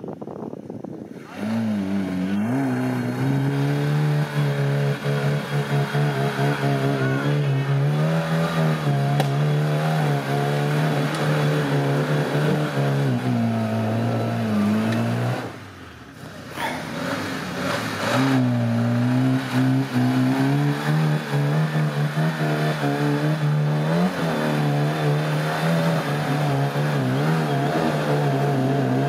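Off-road 4x4 engine running under load, its revs wavering up and down. The engine drops away briefly about halfway through, then pulls hard again.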